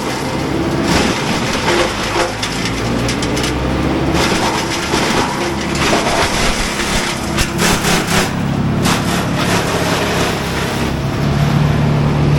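Heavy tree-service machinery running, with a steady diesel engine note and bursts of sharp cracking and crunching.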